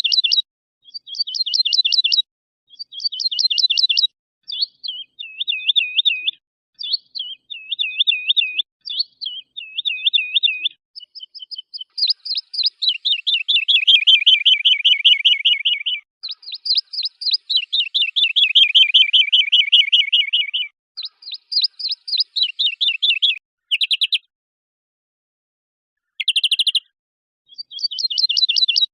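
Recorded songbird song from a compiled training track for cage birds: short, fast, high-pitched trilled phrases repeated with clean silent gaps. Longer, rapid rolling trills come in the middle, and sharp brief high notes come near the end.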